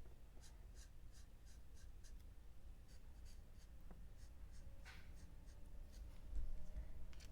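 Alcohol marker tip rubbing on cardstock in short, repeated colouring strokes, about three a second, faint.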